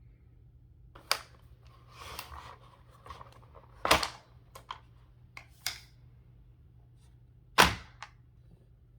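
Hands opening toy die-cast car packaging: a short rustle of plastic and card about two seconds in, several sharp clicks and snaps, and two loud knocks, about four seconds in and near the end.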